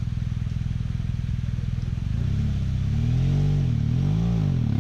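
Adventure motorcycle engine running at a steady idle, then revved up and down several times from about halfway through, as a bike is throttled to climb out of a rocky hole in a creek crossing.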